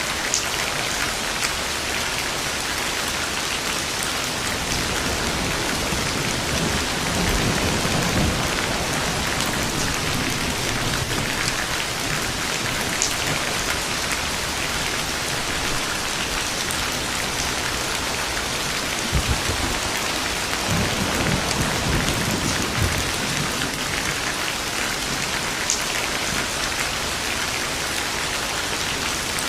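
Steady, heavy rainfall pattering on surfaces, with low rumbles of thunder rolling in about a quarter of the way through and again from about two thirds of the way through.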